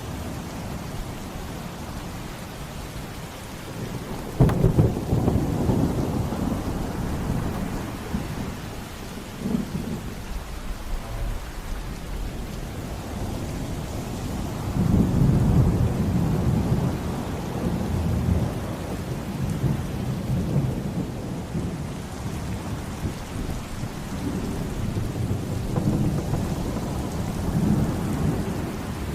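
Steady heavy rain with thunder: a sudden sharp thunderclap about four seconds in rolls on as a low rumble for several seconds, and another long roll of thunder swells up near the middle.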